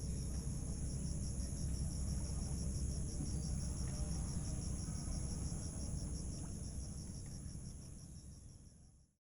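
Insects trilling steadily, a high pulsing chirr of about five pulses a second, over a low rumble; the sound fades out near the end.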